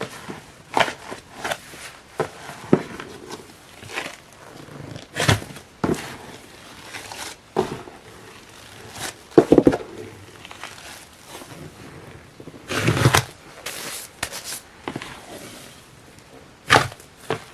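A large batch of slime kneaded by hand, with irregular sticky pops, clicks and squishes as it is folded and pressed.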